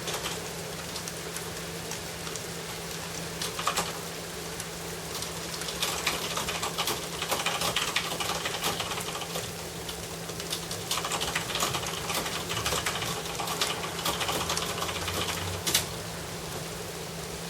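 Rain falling, with a dense patter of drops striking a hard surface. The patter gets heavier and louder for several seconds in the middle, then eases near the end.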